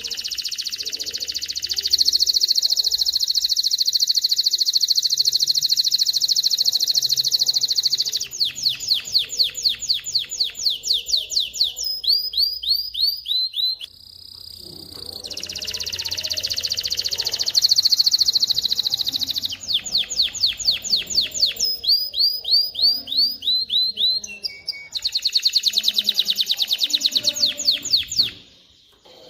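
Male canary singing: long, fast rolling trills alternate with slower runs of repeated sweeping notes, with a short break about halfway through and another near the end.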